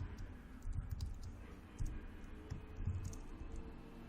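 Computer keyboard being typed on: irregular key clicks with dull low thumps.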